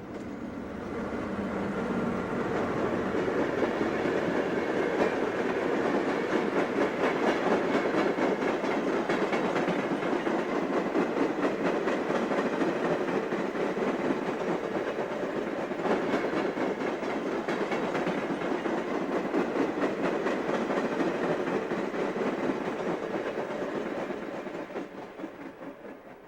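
Canadian National passenger train rolling past, its wheels clicking rapidly over the rail joints. The sound builds over the first few seconds and fades away near the end as the train goes by.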